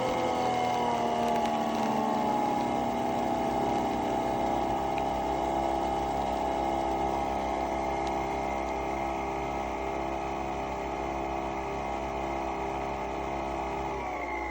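Nespresso Vertuo Pop+ brewing: the capsule-spinning motor whirs at a steady pitch over the fast pulsing of the water pump. The pitch falls near the end as the spin slows.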